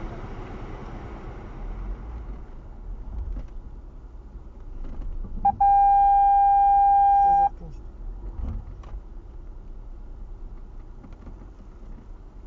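Volvo XC70 driving off-road, heard from inside the cabin as a low steady rumble. About halfway through, a loud, steady, high-pitched electronic beep sounds for about two seconds and then cuts off sharply.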